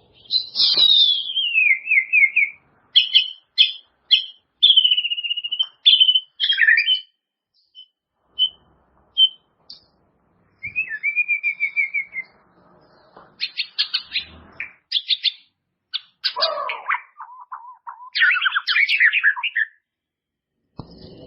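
White-rumped shama (murai batu) singing a varied song of loud whistled phrases separated by short pauses. The song mixes clear notes that slide down in pitch, runs of quick clipped notes, and a lower, rougher phrase about two thirds of the way through.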